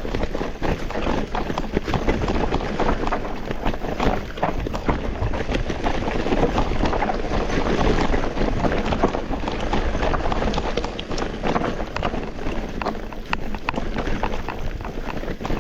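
Marin mountain bike clattering and rattling down a loose, rocky trail, with tyres crunching over the stones and a constant run of knocks from the bike.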